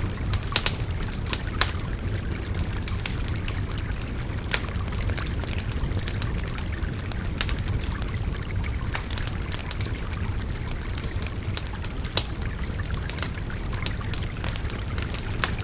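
Wood fire crackling with irregular sharp pops, a few louder than the rest, over the steady babble of a river.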